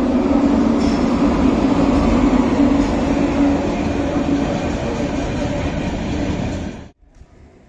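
Locomotive-hauled passenger train running through a station on the far track: a loud, steady rush of wheels on rail with a low hum under it. It cuts off abruptly about seven seconds in.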